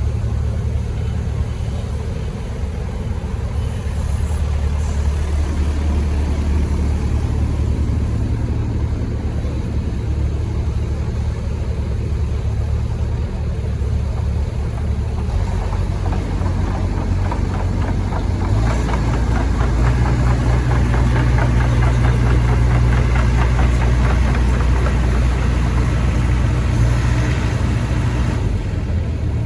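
Diesel engine of a 6-ton excavator, a four-cylinder Yanmar 4TNV94L, running steadily. Its note shifts a few times and steps up in pitch about two-thirds of the way in.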